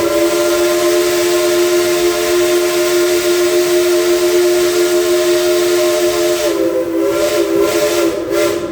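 Steam whistle of the Dollywood Express locomotive No. 192, Klondike Katie, sounding one long chord blast over heavy steam hiss. About six and a half seconds in, the pitch sags and wavers as the whistle winds down, and the hiss stops near the end.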